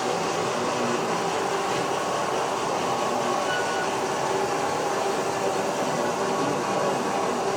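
H0-scale model train running on the layout, a steady hum and whir of the locomotive motor and wheels on the track.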